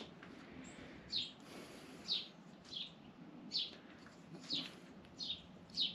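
A small bird chirping over and over: short, high, falling chirps, about one a second.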